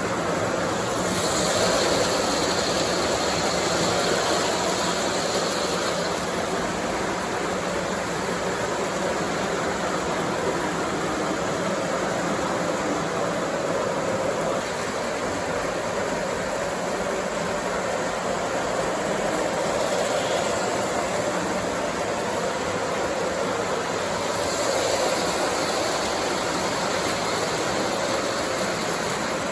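O scale model trains running on their track: a steady rolling hum of wheels and motors, with a brighter hiss for a few seconds near the start and again near the end.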